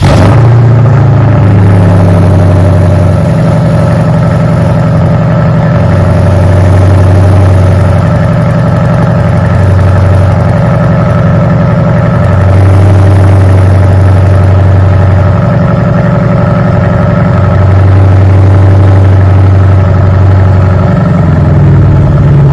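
2013 BMW 550i twin-turbo V8 fires up and idles through its opened-up exhaust: rear mufflers, mid muffler and resonators deleted, with a true X pipe. The deep low drone swells and eases every few seconds.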